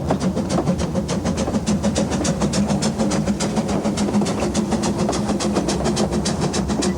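Narrow-gauge steam locomotive working a train, its exhaust beating rapidly and evenly, about six beats a second, over a steady low running hum.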